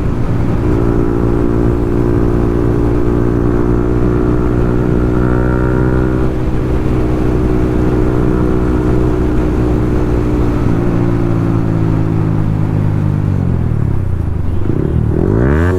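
Yamaha MT-15's single-cylinder engine through a loud Akrapovic full-system exhaust, held at high revs while riding. Its pitch sags slowly, drops off about eleven seconds in as the bike slows, then rises and falls in quick revs near the end.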